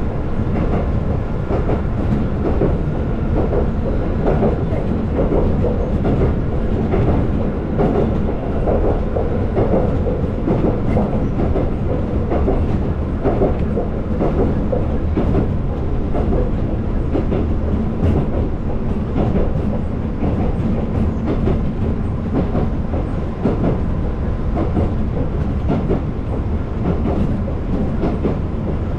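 Konan Railway electric train running on the Konan Line, heard from inside the leading car: a steady running rumble with frequent wheel clicks over the rails and a faint steady hum.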